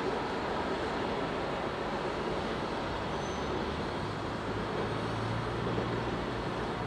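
Passenger train hauled by an Sr2 electric locomotive pulling away, its steady running noise slowly fading as it recedes, with a faint low hum joining about four seconds in.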